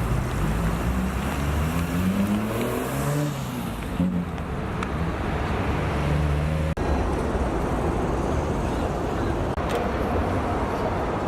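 Car engines running at idle, with one revving up in a rising pitch about two seconds in, over a steady background of engine and traffic noise.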